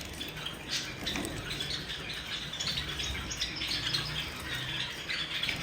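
A flock of Java sparrows chirping, many short high calls overlapping in a steady chatter.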